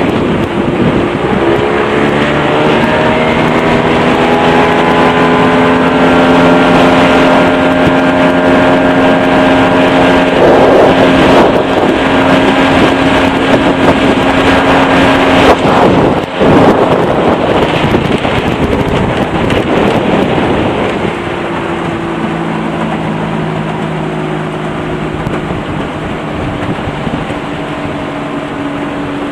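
1986 Yamaha 40 HP three-cylinder two-stroke outboard opened to full throttle: its note climbs over the first couple of seconds, then holds steady at top speed with wind and water rush. There is a brief dip about sixteen seconds in, and the sound drops quieter about twenty-one seconds in.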